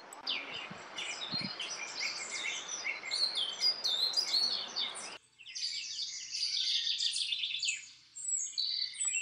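Several songbirds singing at once, a dense mix of high chirps, whistles and trills. A steady rushing noise underneath cuts off suddenly about five seconds in, leaving only the birdsong.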